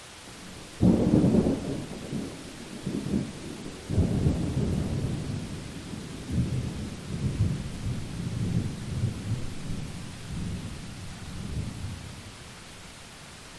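Thunder over steady rain: a rumble that starts suddenly about a second in, swells again at about four and six seconds, and rolls away near the end.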